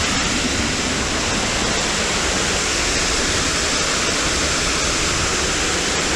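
Waterfall crashing close by: a loud, steady rush of falling water.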